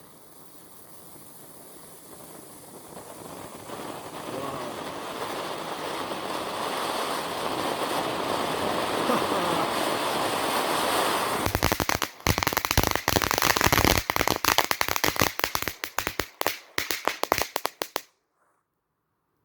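Etna 'volcano' ground fountain firework spraying sparks: a hiss that grows steadily louder for about ten seconds, then turns into rapid crackling for several seconds before stopping abruptly.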